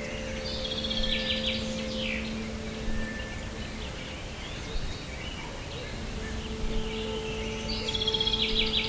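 Songbirds singing in a forest ambience: a rapid trilled phrase about a second in and another near the end, over a steady bed of noise.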